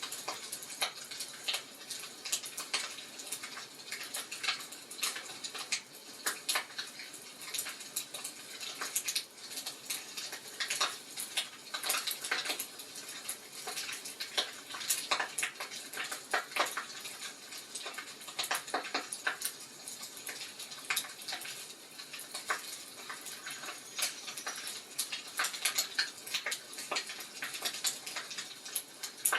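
Wood fire in a fireplace crackling, with irregular sharp snaps over a faint steady hiss.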